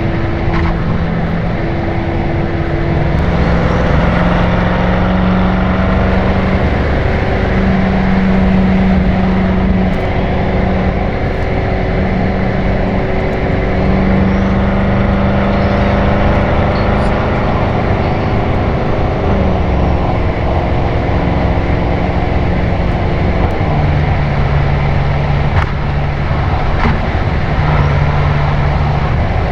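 BMW M6 Gran Coupe's twin-turbo V8 through an Akrapovič Evolution Line exhaust, recorded outside the car while cruising at expressway speed. A steady exhaust drone runs over tyre and wind noise. Its pitch steps down a little about two-thirds of the way through, and again a few seconds later.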